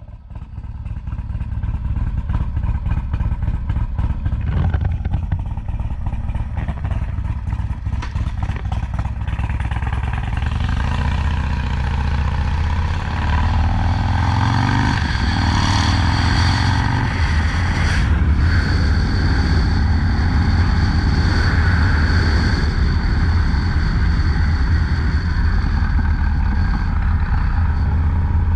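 Harley-Davidson FXDLS Low Rider S V-twin engine running as the motorcycle is ridden. The engine note rises and falls with the throttle, and it gets louder in the first couple of seconds as the bike pulls away.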